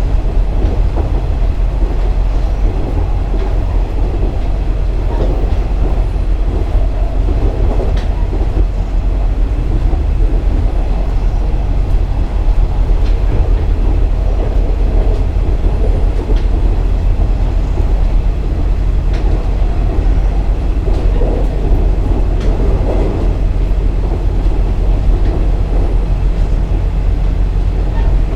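KiHa 47 diesel railcar running along the line: a steady low rumble of the diesel engine and wheels on the rails. Faint clicks come now and then as the wheels pass rail joints.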